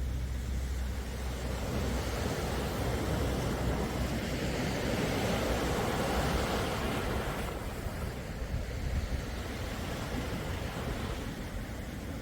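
Calm sea waves washing ashore. The surf rises a couple of seconds in, is at its fullest about halfway, then eases off.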